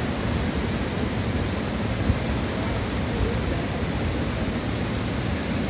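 Steady rush of a river in flood, fast water churning without a break.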